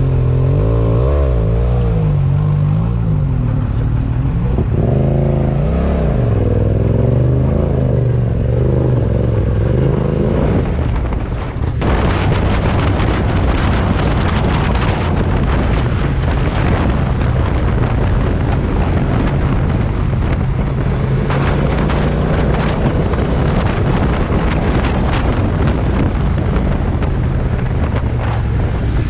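Motorcycle engine on the move, its pitch rising and falling with the throttle. About twelve seconds in, a loud rush of wind and road noise takes over, with the engine running steadily underneath.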